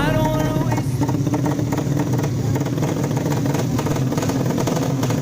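Tuned 155cc drag-race motorcycle engines running steadily. Background music fades out in the first second.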